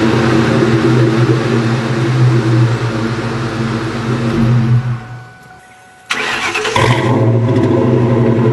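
2001 Ford Mustang GT's 4.6-litre V8 idling steadily through its Flowmaster 40 Series cat-back exhaust, fading out about five seconds in. Then the engine is started: a short sharp burst as it catches, after which it settles back into a steady idle.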